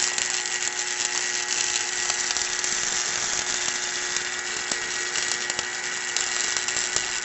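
Stick welding arc crackling and sizzling steadily as the electrode burns, with a faint steady hum underneath; it cuts off suddenly at the end as the arc is broken.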